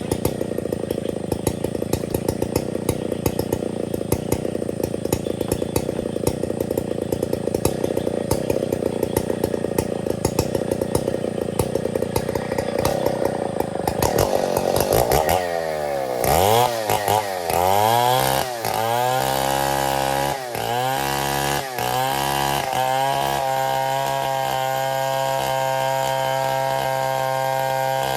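Stihl 070 chainsaw working ironwood under load, its engine note rough and dense. About halfway through, the engine pitch rises and falls several times as the throttle is worked, and near the end it settles into a steady, even run.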